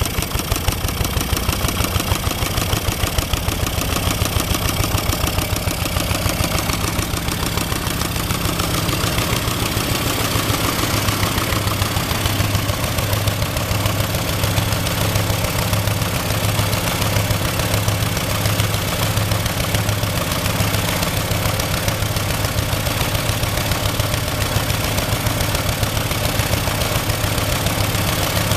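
Lister Petter diesel engine running steadily with a fast even firing beat while driving a compressor pump; from about halfway its low note takes on a slow regular throb.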